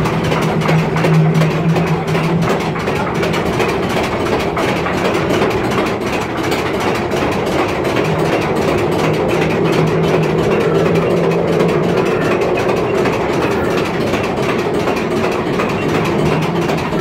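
Amusement-park ride train running through a tunnel: a steady rumble of the cars on the track, with a low hum that comes and goes.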